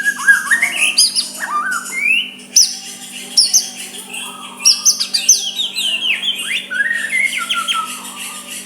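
White-rumped shama singing a rapid, varied song of whistled notes and quick rising and falling sweeps, with brief gaps between phrases, over a faint steady hum.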